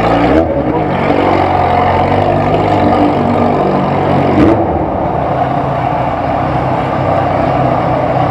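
Motorcycle engine running steadily at an even pitch, with rushing wind noise over it, and a brief louder moment about four and a half seconds in.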